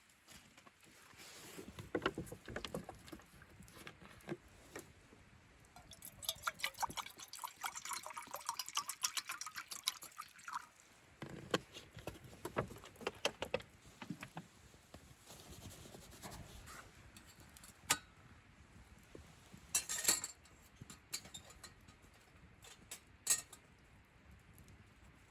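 Camp cookware handling: scattered knocks and clinks, with liquid poured into a vessel for about four seconds near the middle, its pitch rising as it fills.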